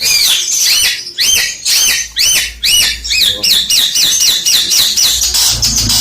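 Long-tailed shrike (cendet) singing loudly: a long string of repeated arched, rise-and-fall notes, speeding up partway through and turning harsher near the end.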